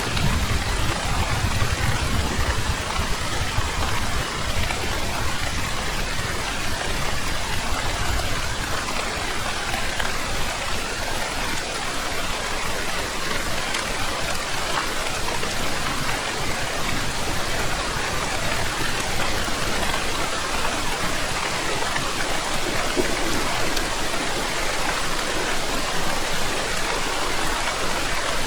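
Heavy, steady rainfall, a dense even hiss of drops. A low rumble underneath fades away over the first eight seconds or so.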